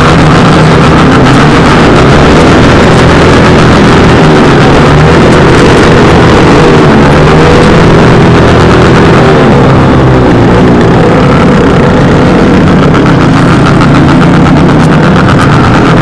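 Motorcycle with a loud aftermarket exhaust running while riding, its pitch rising and falling gently with the throttle.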